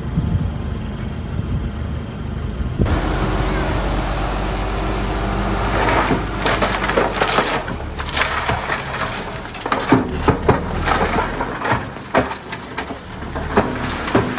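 A bulldozer's diesel engine running, then from about three seconds in a loud crunching as debris is pushed and crushed, with many sharp cracks and snaps of breaking wood.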